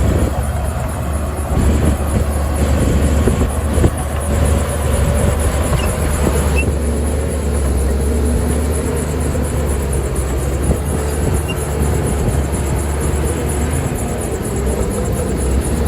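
Heavy diesel earth-moving machinery running with a steady low rumble, with a few knocks in the first few seconds.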